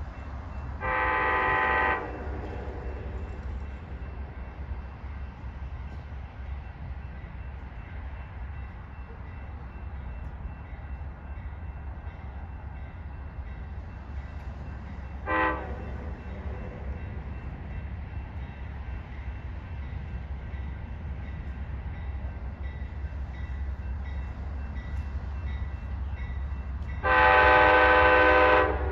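Train horn sounding a chord of several tones three times: a blast of about a second near the start, a brief toot about halfway, and a blast of about a second and a half near the end, over a steady low rumble.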